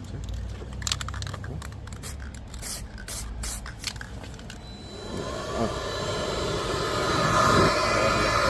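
Short hissing bursts like an aerosol spray can, then about five seconds in a power tool's motor starts and runs with a steady whine that grows louder.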